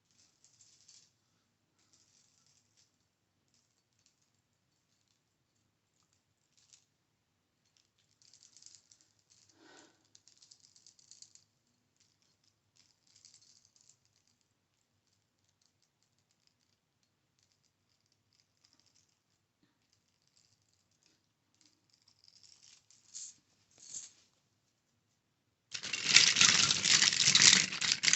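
Faint scattered taps and clicks of small objects being handled, then, near the end, about two seconds of loud, dense rattling as a handful of small items is shaken or jostled together.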